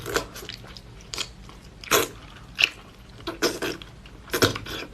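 Close-up eating sounds: a series of sharp, irregular crunches and cracks as hard food is bitten into and chewed.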